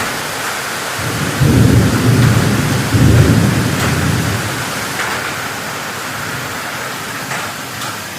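Heavy rain falling steadily, with a low rumble of thunder that swells about a second and a half in, peaks again around three seconds, and dies away over the next second or two.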